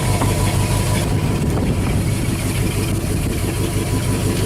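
Speedboat engine running steadily with a low, even hum, over a constant hiss.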